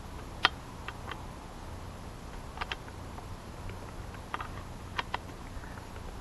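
Scattered light clicks and taps, several seconds apart, from a wrench working the chainsaw's bar-mounting nuts as they are tightened; the sharpest click comes about half a second in.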